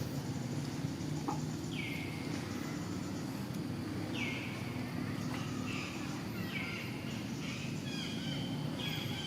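A series of about six short, high-pitched animal calls, each falling in pitch, over a steady low background hum.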